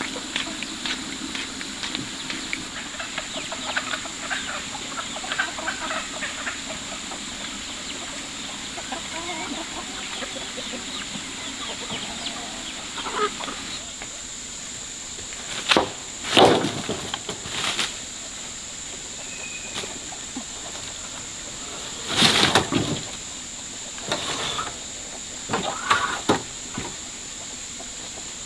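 Chickens clucking, with a few louder sounds later on: two around the middle and one near the end.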